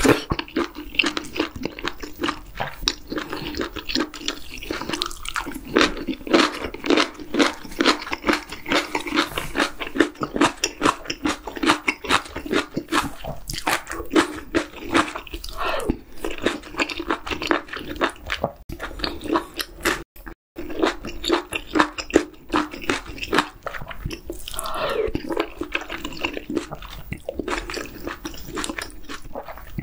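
Close-miked chewing of spicy octopus hot pot with chewy jjolmyeon noodles, a dense run of quick wet mouth clicks. It cuts out for a moment about two-thirds of the way through.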